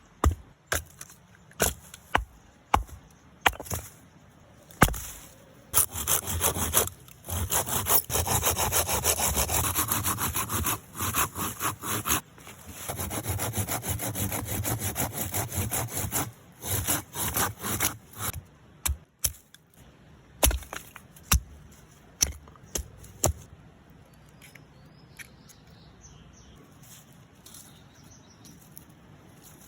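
Wood being sawn by hand in two long spells of quick back-and-forth strokes. Sharp knocks of wood come before and after the sawing, and the last few seconds are quiet.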